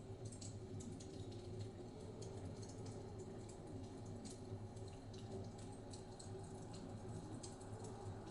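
Wood fire crackling in a fireplace, with irregular small pops and snaps over a steady low rumble.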